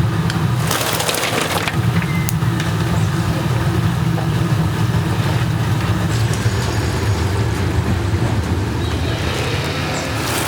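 Oil sizzling and crackling in a large frying cauldron, over a steady low machine hum. The sizzle swells briefly about a second in.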